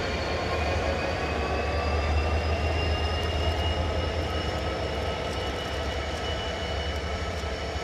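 Diesel locomotive running, with a steady deep rumble and a high whine that climbs slowly in pitch over the first few seconds and then holds.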